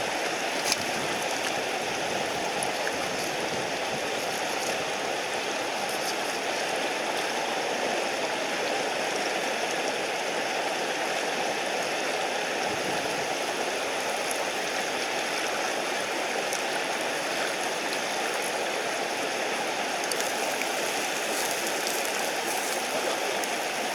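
Mountain stream rushing steadily over rocks, with a few faint sharp clicks here and there.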